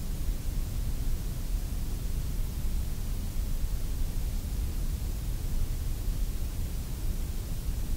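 Abrasive blast cabinet in use: a steady rushing hiss of compressed air and grit from the blast gun, strongest at the deep end, as it strips rust from a metal part down to bare metal.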